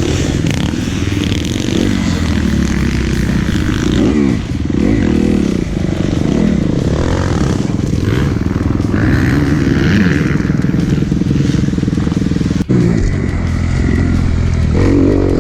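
Dirt bike's single-cylinder four-stroke engine, a Kawasaki KX250F, revving up and down as it is ridden.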